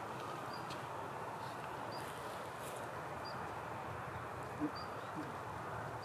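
A bird gives short, high chirps about every second and a half over a steady background hiss. A brief, louder low sound comes about two-thirds of the way through.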